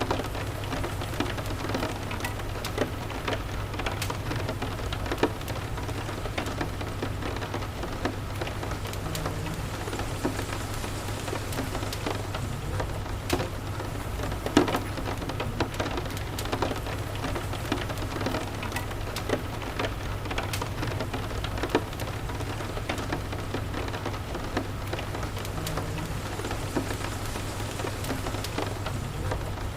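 Steady rain with frequent sharp crackles and pops from a wood fire in a fireplace, over a constant low rumble. One pop about halfway through stands out louder than the rest.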